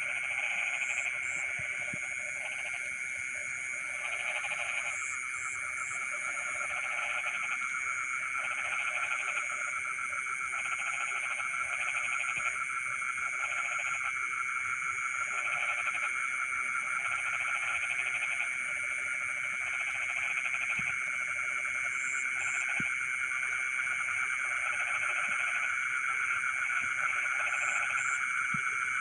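Night chorus of frogs in a rice paddy: croaking calls repeating in short bouts about every second or two, over a steady high trilling chorus and a thin shrill band above it. A few short high double chirps come through now and then.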